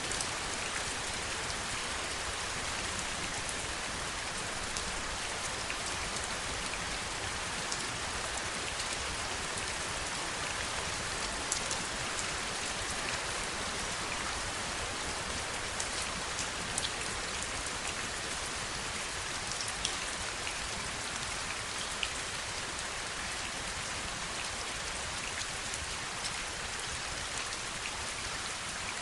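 Steady heavy rainfall, an even wash of noise with scattered louder drop impacts standing out now and then.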